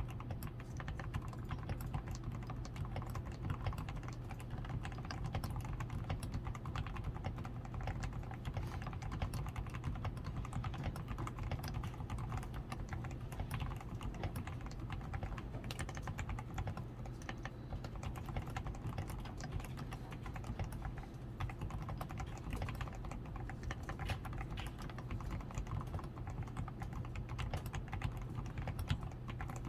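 Continuous typing on a DAREU A87 Pro mechanical keyboard: a dense, uneven run of key clacks. The keyboard has been modded with fully Krytox 105-lubed switches, a PCB tape mod, switch foam, lubed stabilisers and XDA keycaps.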